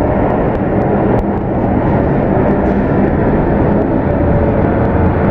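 Boeing 747-8F freighter's four GEnx jet engines running, a loud steady jet roar heavy in the low end.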